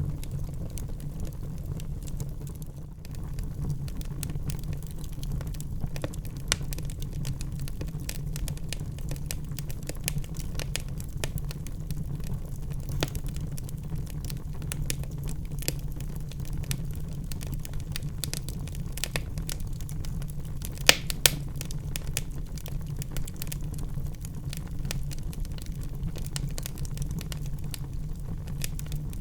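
Wood fire burning in a fireplace: a steady low rumble of the flames with frequent irregular crackles and pops, two sharp pops louder than the rest about 21 seconds in.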